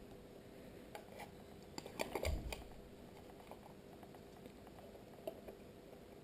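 Faint scattered clicks and taps of small IP camera parts being handled, thickest about one to two and a half seconds in.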